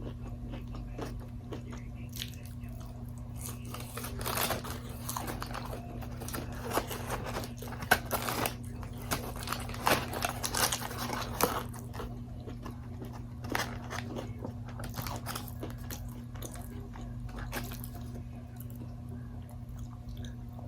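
Close-miked eating of crispy Wingstop food: irregular crunchy bites and chewing, busiest in the middle, over a steady low hum.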